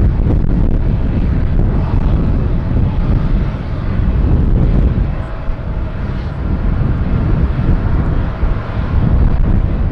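Jet airliner on approach to land: a steady, loud rumble of its engines with a faint steady whine.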